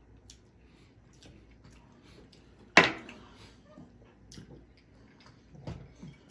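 Close-miked eating sounds: wet mouth and chewing noises with small scattered clicks, and one loud sharp clack a little under three seconds in. A softer knock comes near the end.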